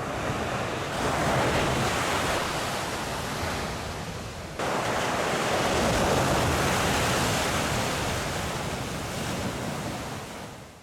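Steady rush of moving water, an even noise that swells and eases, with a sudden step up in loudness about halfway through.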